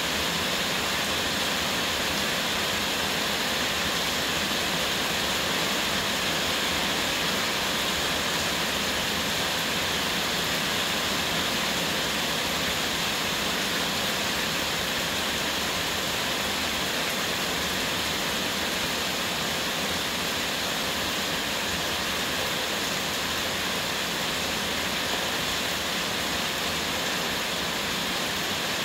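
Heavy rain pouring down steadily, an even, unbroken hiss that neither builds nor eases.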